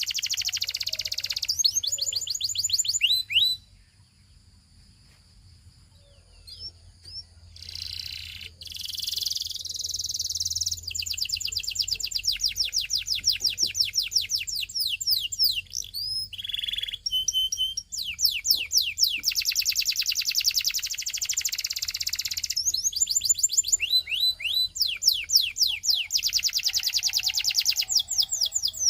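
Canary singing long, fast trills of rapid repeated high sweeping notes, with a few seconds of scattered soft notes early on before the rolling trills resume.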